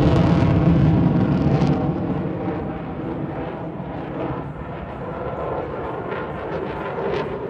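Jet aircraft flying past, loudest in the first two seconds, then fading to a lower, steady engine noise.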